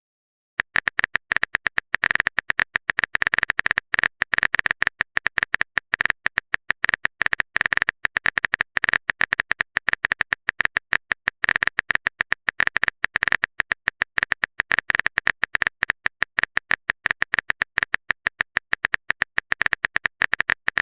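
Rapid run of sharp clicks, about ten a second with brief gaps, as in a keyboard typing sound effect that plays while a chat message is typed out.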